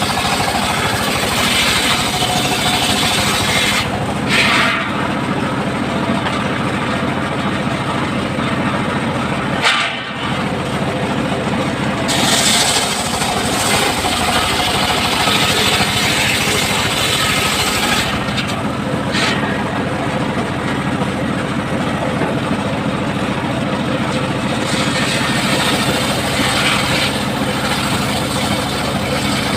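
Powered circular saw running with a steady machine drone, its blade cutting through timber in several long passes. The high cutting noise rises during the cuts, in the first few seconds, from about twelve to eighteen seconds and near the end, and drops briefly about ten seconds in.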